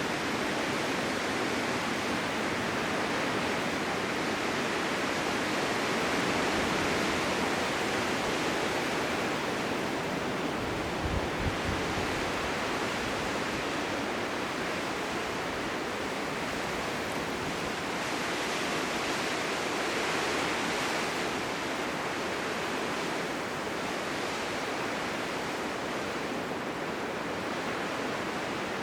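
Blizzard wind: a steady rushing noise that swells and eases gently in gusts, with a brief low thump about eleven seconds in.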